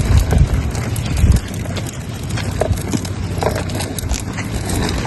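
Wind and handling rumble on a phone microphone, heavy for about the first second and a half, then a steady hiss with scattered light taps.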